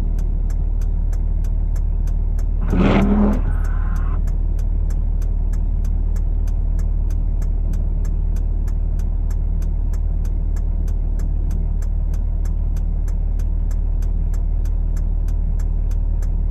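A vehicle engine running steadily with a low hum, with a thin, even ticking about three times a second throughout. A brief louder sound comes about three seconds in.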